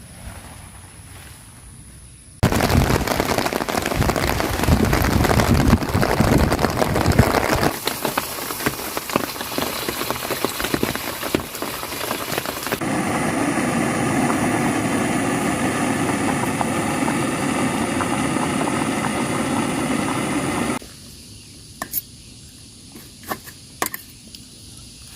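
Heavy rain falling as a loud, steady hiss that starts suddenly a couple of seconds in and changes character abruptly twice. Near the end it drops back to a quiet background with a few sharp clicks.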